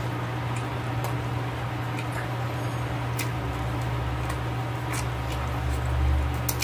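Close-up eating: sparse soft clicks from chewing and the fork as shredded stewed beef is eaten, over a steady low hum.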